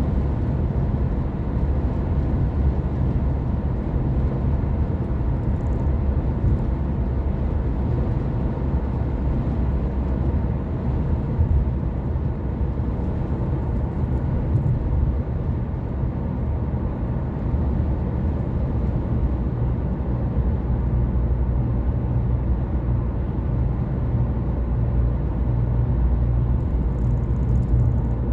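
Car driving at a steady pace: a low engine hum and road and tyre rumble that holds even throughout.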